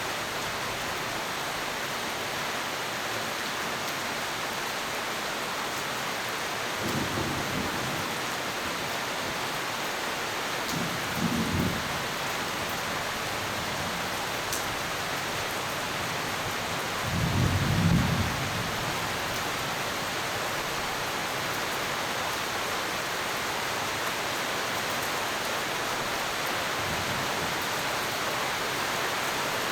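Steady rain falling, with three short low rumbles of thunder about seven, eleven and eighteen seconds in, the last one the loudest.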